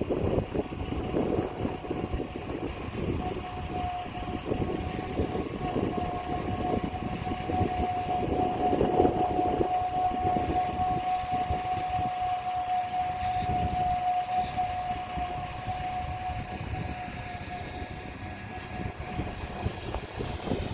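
Heavy harvest machinery running: an uneven engine rumble with a steady high-pitched whine that comes in a few seconds in and fades out near the end.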